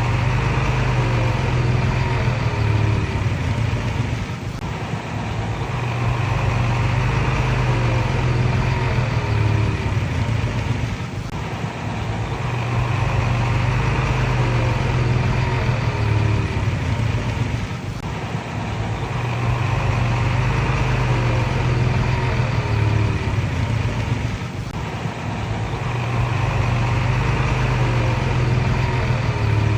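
Komatsu D31PX bulldozer's diesel engine working in a repeating cycle: it runs hard for several seconds, then eases off briefly, roughly every six to seven seconds. A wavering squeal comes and goes with the working stretches.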